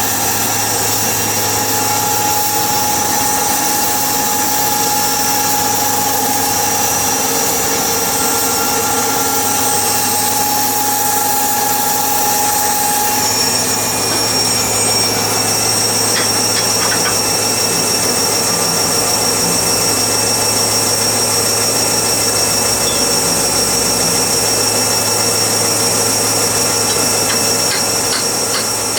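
Machinery running steadily with several high whining tones. The tones change abruptly about 13 seconds in, and a fast ticking starts near the end.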